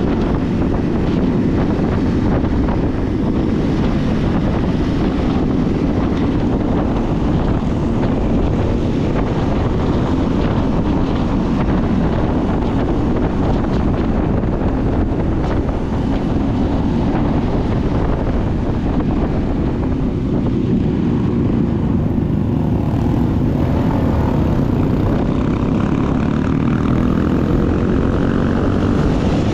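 Motorcycle riding at road speed: its engine runs steadily under a constant rush of wind noise.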